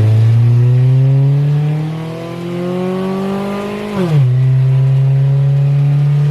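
Honda CR-V's four-cylinder engine accelerating hard. Its pitch climbs steadily for about four seconds, drops quickly at a gear change, then holds steady.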